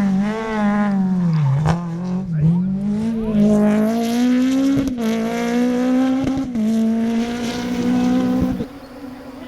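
Rally car engine revving hard, its pitch climbing and dropping several times with gear changes and lifts off the throttle, punctuated by a few sharp cracks. The engine note cuts off suddenly near the end, leaving a fainter background noise.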